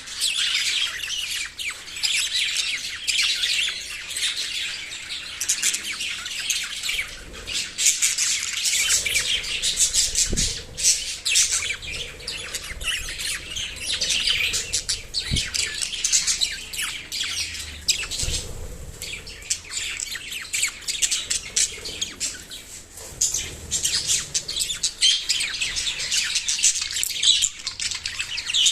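Several small pet parrots chirping and squawking without pause, many rapid high calls overlapping, with a few soft low thumps in the middle.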